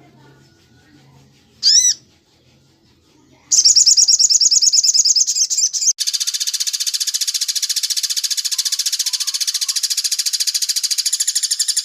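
Recorded bird calls looped as a songbird training track: a single sharp chirp about two seconds in, then a loud, fast, high trill. At about six seconds it cuts abruptly to a continuous rapid chattering trill.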